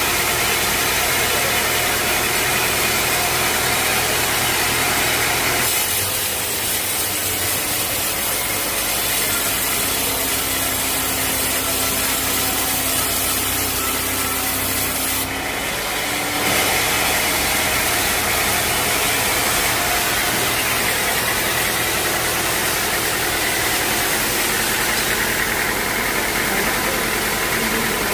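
Sawmill machinery running steadily: a motor's hum with a hiss above it. The sound shifts abruptly about six seconds in and again around fifteen to sixteen seconds in.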